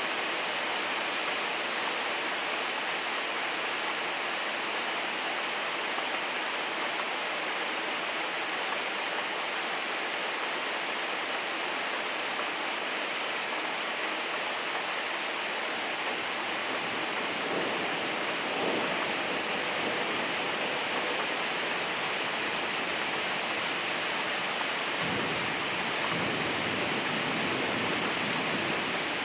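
Steady rain falling, an even hiss. A brief lower sound comes about two-thirds of the way in, and a low rumble rises under the rain near the end.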